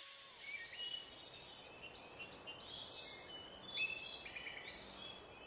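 Faint birdsong: many short, high chirps over a soft steady hiss of outdoor ambience.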